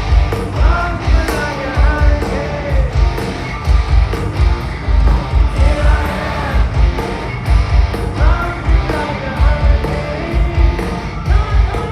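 Hard rock band playing live and loud: pounding kick drum, distorted electric guitars and a lead vocal line.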